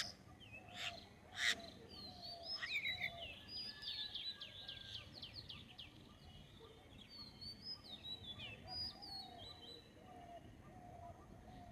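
Several wild birds chirping and calling together: a few loud, sharp calls in the first second and a half, then a busy run of quick chirps and fast downward trills, with a lower short call repeating underneath.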